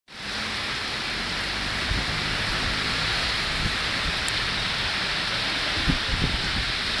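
Heavy rain pouring down in a steady, dense hiss, with a few short, dull low thumps.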